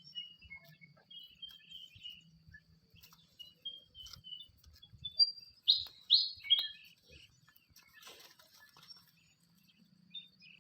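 Small birds chirping in short, high notes, with a quick run of three sharp, falling chirps about six seconds in as the loudest part. A faint steady high whine lies underneath.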